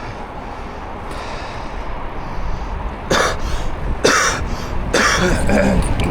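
A person coughs three times, about a second apart, over a steady low wind rumble on the microphone of a moving e-bike.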